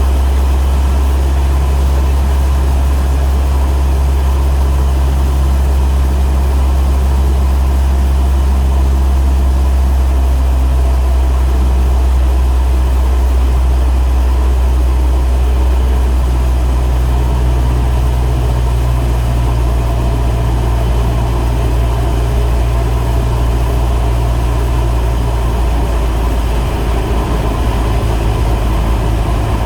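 Cessna's piston engine and propeller droning steadily and loudly, with a slight shift in its tone about halfway through.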